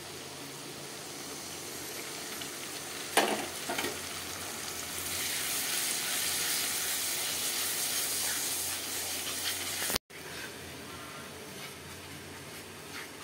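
Onion-and-spice masala sizzling and frying in hot oil in an iron kadai as it is stirred with a metal spatula. There is a sharp knock of the spatula against the pan about three seconds in and a few lighter ones after it, and the sizzle swells louder in the middle. The sound cuts out for a moment about ten seconds in.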